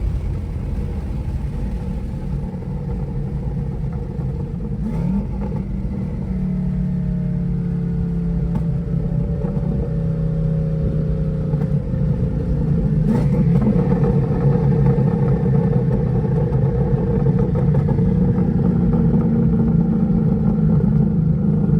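The 5.0-litre Coyote V8 of a twin-turbo 2011 Mustang GT running steadily at low revs. It gets louder about thirteen seconds in, with a sharp click at that point.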